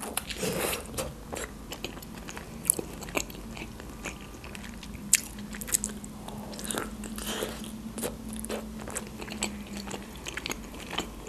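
Mouth sounds of biting into and chewing a boiled khinkali dumpling: irregular wet clicks and smacks.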